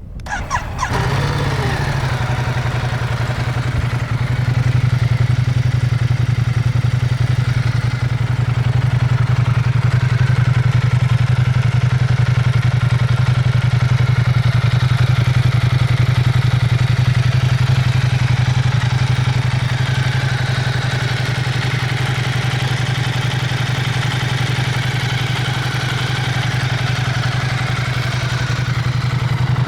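Ducati XDiavel S's 1262 cc Testastretta DVT V-twin starting up and then idling steadily with no revving.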